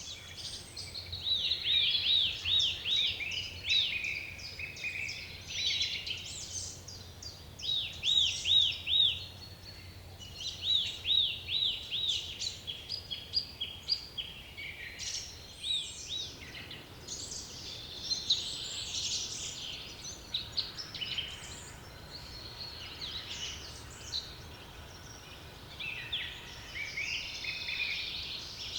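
A chorus of songbirds singing, with several birds overlapping and one repeating quick runs of rising-and-falling notes several times.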